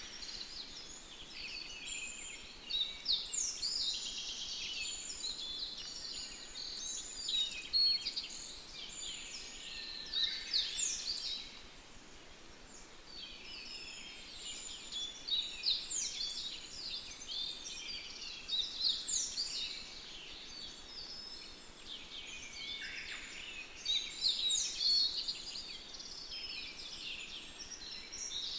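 Many small birds singing and chirping together: a dense stream of quick, high, overlapping calls that thins out for a few seconds near the middle.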